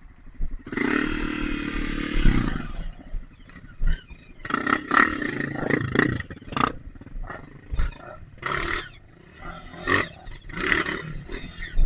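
Dirt bike engine revved hard in repeated bursts, first held at high revs for about two seconds, then in shorter bursts, as the bike is pushed through mud.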